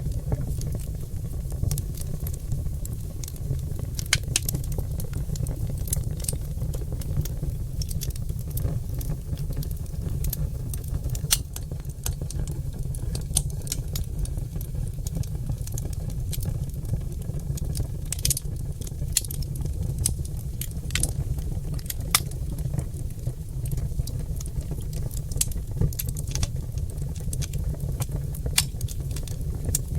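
Oak logs burning in a fireplace, crackling with frequent sharp, irregular pops over a steady low rumble.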